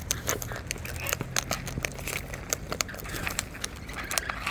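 Birds crunching seed at close range: rapid, irregular sharp cracks and clicks.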